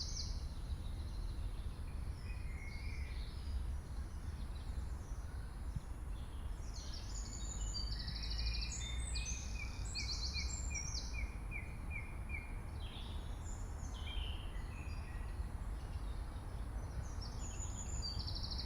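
Several birds singing and calling: fast trills and chirps repeat throughout, with a run of short evenly spaced notes, about two a second, near the middle. A steady low rumble of background noise runs underneath.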